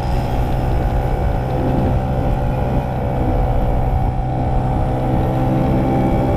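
Two-stroke motorcycle engine running at a fairly steady speed, a continuous buzzing drone with little change in pitch.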